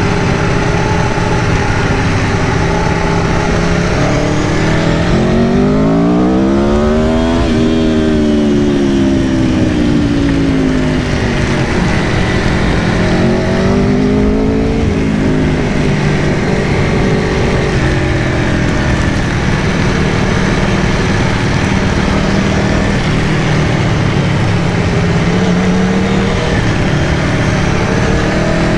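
Aprilia Tuono V4 Factory's V4 engine on the move, climbing in pitch under acceleration and easing back twice, then holding steady before rising again near the end, over a steady rushing noise.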